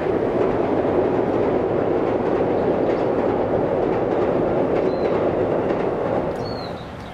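Train crossing a steel railway bridge. The sound swells in quickly at the start, holds steady for about six seconds, and fades away near the end.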